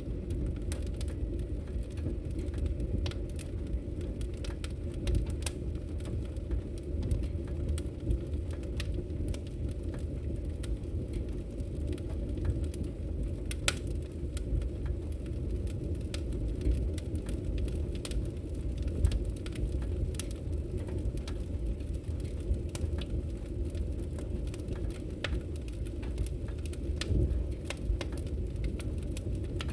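Wood fire crackling in a fireplace: a steady low rumble of burning with irregular sharp pops and snaps, a few louder than the rest.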